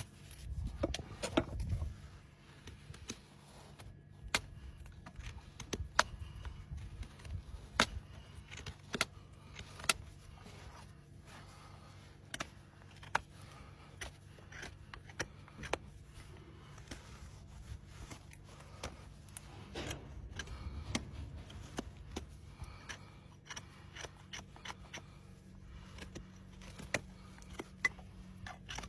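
Hoof-trimming tools being worked on a horse's hoof: scattered sharp clicks and knocks with light scrapes, after the rasping stops, over a faint low steady hum.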